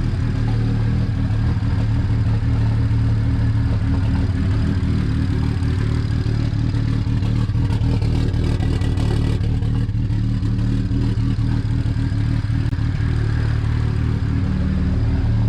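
BMW 335i's turbocharged inline-six idling steadily, freshly started after a big single-turbo conversion. It has a slight lope to it, which the owner suspects is a misfire.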